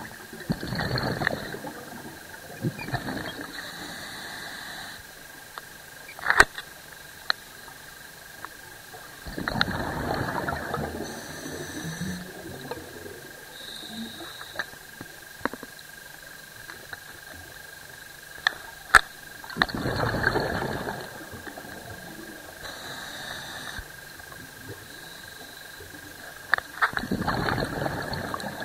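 A scuba diver's regulator breathing underwater: a rushing burst of exhaled bubbles about every nine seconds, with softer inhalation sounds in between. Scattered sharp clicks and a steady thin high tone run underneath.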